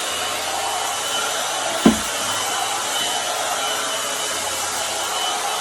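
A 2-in-1 hair dryer and volumizer brush running steadily, blowing air through the hair. A single brief thump about two seconds in.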